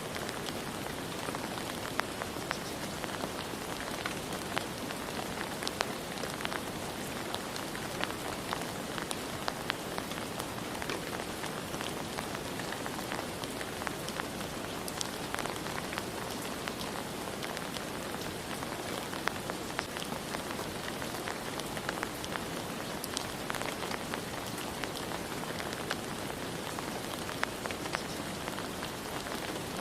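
Steady rain falling, a dense even hiss with many individual drops pattering and ticking on a hard surface.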